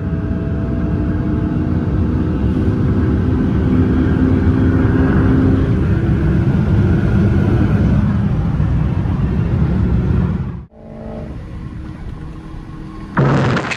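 McLaren 570S twin-turbo V8 under hard acceleration in a roll race, heard from inside the cabin with heavy road and wind noise, the engine note slowly rising. About ten and a half seconds in the loud sound cuts off abruptly and gives way to quieter cruising, and a sudden loud burst comes near the end.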